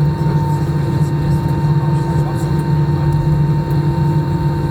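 Steady drone of a jet airliner heard from inside the cabin: a deep engine hum with a thin steady high tone over it.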